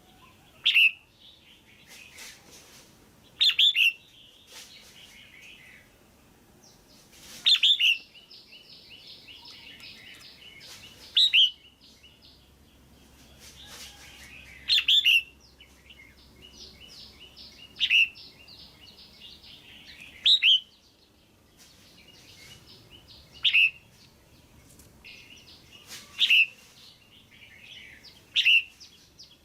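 Female red-whiskered bulbul calling: a loud, sharp call roughly every three seconds, about ten in all, with softer rapid chattering trills between them.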